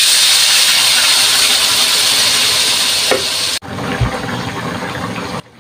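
Ground chili spice paste sizzling loudly as it is poured into hot oil in a wok, a steady hiss that cuts off suddenly about three and a half seconds in. After that, chicken pieces simmer more quietly in the sauce, with one low thump shortly after.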